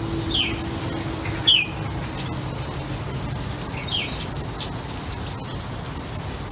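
Bird chirping: three short, sharp downward-sliding notes in the first four seconds, over a steady low background hum.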